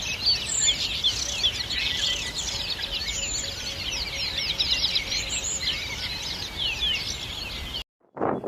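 A dense chorus of many small birds chirping at once, with quick overlapping falling chirps, as from a large flock. It cuts off abruptly near the end, and after a brief gap a different rushing noise comes in, like wind on the microphone.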